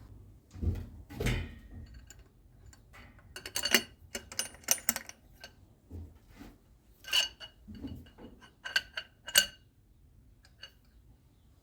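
Metal tools and parts clinking and knocking as they are handled and set down: irregular sharp clinks with a short metallic ring, in clusters a few seconds apart, between a few duller knocks.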